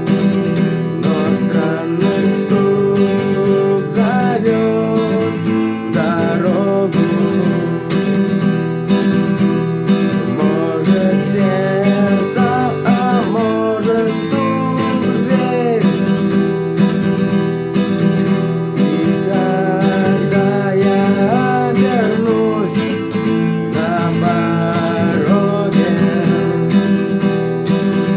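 Acoustic guitar strummed in a steady rhythm: an instrumental passage of the song with no singing.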